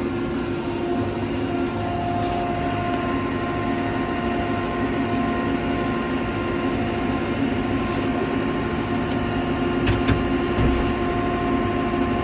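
New Holland Powerstar 75 tractor's four-cylinder diesel engine running steadily as the tractor drives in range 2, heard from inside the cab as an even drone with a steady whine. A few light clicks come about 2 seconds and 10 seconds in.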